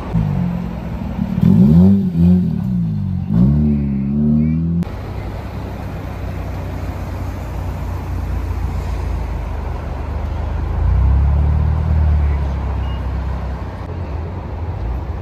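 Car engines: one is revved in several quick blips, its pitch rising and falling, over the first five seconds. Then comes a steady low engine rumble that swells around eleven to twelve seconds in as a car moves past.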